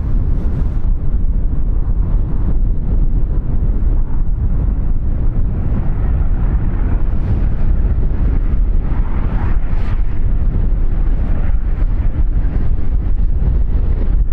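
Strong wind buffeting the microphone: a loud, steady low rumble with a brief gust swelling about two-thirds of the way in.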